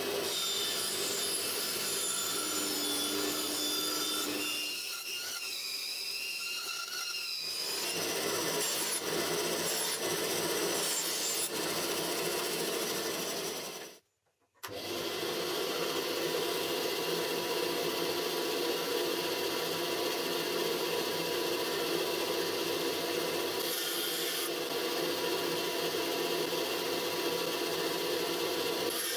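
Homemade bandsaw, driven by a washing machine motor, running and cutting through stock: a steady rasping saw noise over a constant machine hum. The sound cuts off abruptly about halfway through and comes back straight after.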